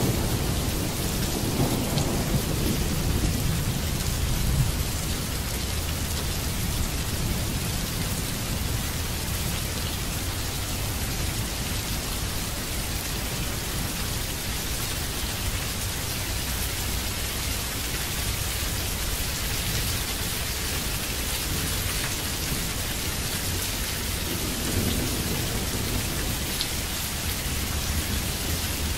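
Steady heavy rain falling on wet ground, with low rumbles of thunder in the first few seconds and again about 25 seconds in.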